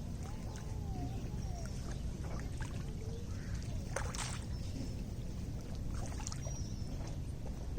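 Small lake waves lapping and splashing at the shore: a steady low rumble with many small splashes, the sharpest about four seconds in.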